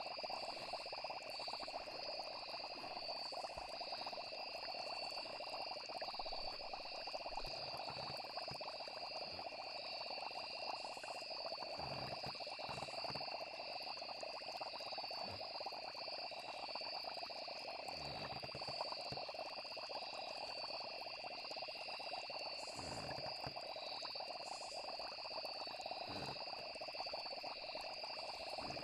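Steady night chorus of frogs and insects, with a continuous high pulsing trill and scattered low, short calls.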